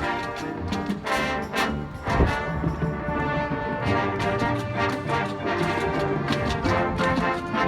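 Marching band playing, brass section over drums and percussion, with a loud full-band accent about two seconds in.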